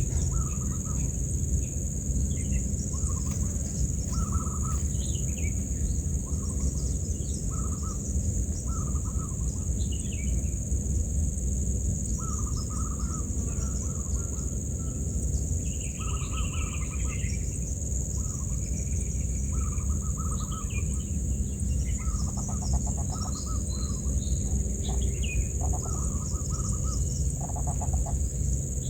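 Birds calling: a run of short calls repeated every second or two, with higher chirps between them, over a steady high-pitched hiss and a low rumble.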